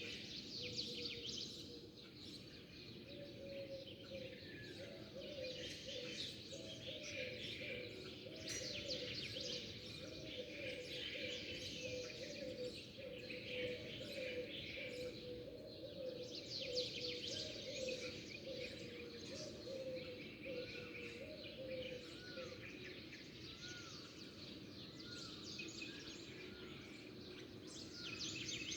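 A chorus of small songbirds chirping and twittering, many calls overlapping. A lower note repeats about twice a second through much of it, and a few short rising-and-falling calls come near the end.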